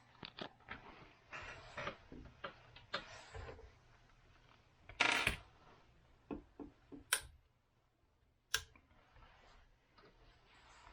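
Handling of a small plastic screwdriver bit case: scattered light clicks, taps and scrapes. There is a short louder rustle about five seconds in and two sharp clicks later on.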